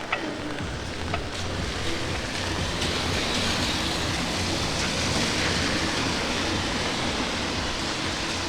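Light rain and wet-street city noise, with a rushing hiss that swells through the middle and eases off, like tyres on wet pavement, over a low steady rumble.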